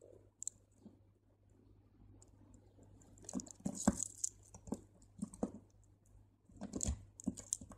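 Faint clicking and rustling of small crystal beads knocking together as they are threaded onto a line and drawn tight, in two bunches of clicks near the middle and near the end.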